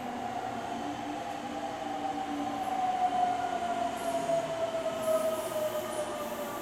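Meitetsu 200 series subway train pulling into the station and braking, its motor whine falling steadily in pitch as it slows, with faint high squeals from the wheels and brakes.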